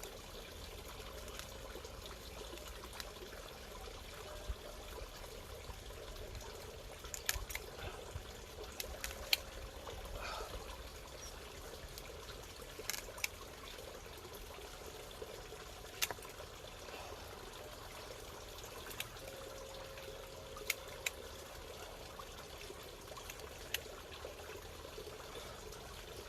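Steady trickle of bubbling water from a fish pond, with a few faint short clicks and taps scattered through.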